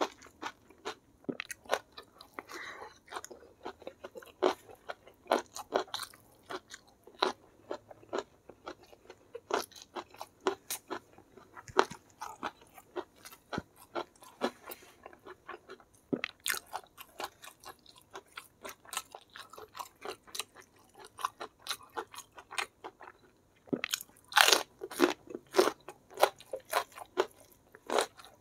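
Close-miked eating: a person chewing and crunching mouthfuls of rice with crispy fried bits, a steady run of small crisp clicks, with a louder spell of crunching near the end.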